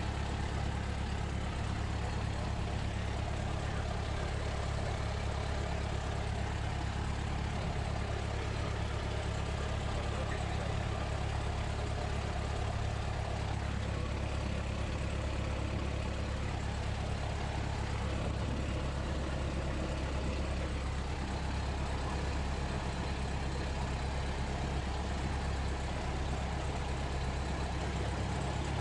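Cessna 172S's four-cylinder Lycoming piston engine running steadily at low power, a constant low drone.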